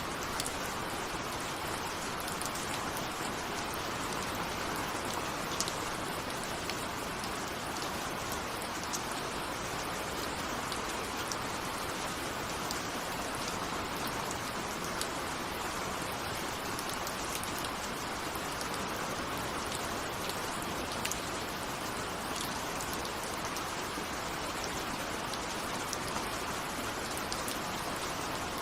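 Steady rain with scattered sharp ticks of individual drops striking a window.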